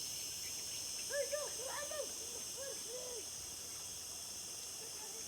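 A steady high-pitched insect chorus, with a run of about eight short rise-and-fall bird calls between about one and three seconds in.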